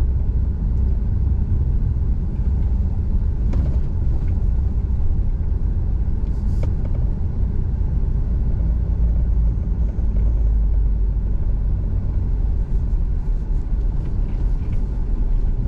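Car or truck driving slowly, a steady low rumble of engine and road noise with a few faint knocks.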